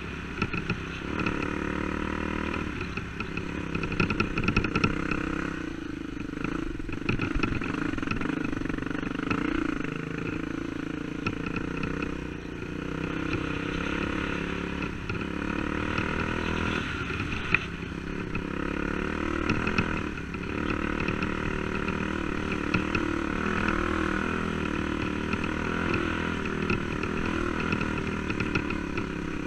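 Dirt bike engine running under way, its pitch rising and falling as the throttle changes, with a few short knocks along the way.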